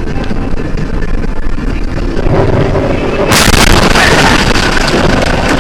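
Loud, steady road and wind noise from a moving car picked up by a dashcam microphone. It turns abruptly into a brighter, hissier rush a little over three seconds in.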